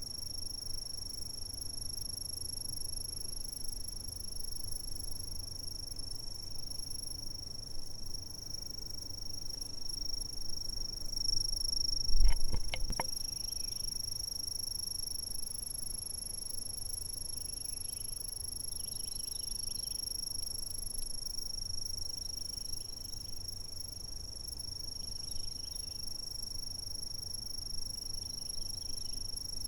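Chirping insects in a steady, unbroken high-pitched chorus. About twelve seconds in, a brief low thump with a few clicks is the loudest sound, and faint short calls come and go later on.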